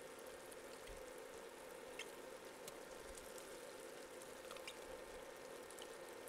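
Faint sizzling of shallots and bell pepper frying in bacon fat and oil in a pot, with scattered small pops, over a steady hum.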